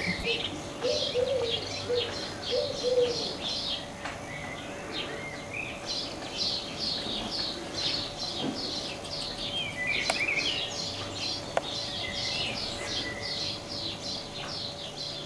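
Small birds chirping, a quick steady run of short, high, falling chirps, about three a second, with a few lower calls now and then.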